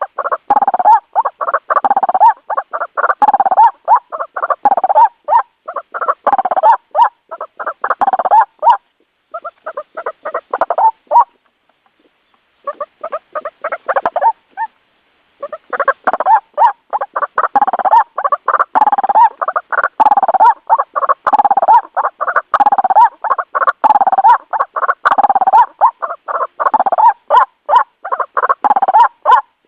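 White-breasted waterhen (ruak-ruak) calling in a lure recording: a rapid, dense run of repeated 'ru-ak' notes. It breaks off briefly about twelve seconds in, comes back in sparser notes, and turns dense again a few seconds later.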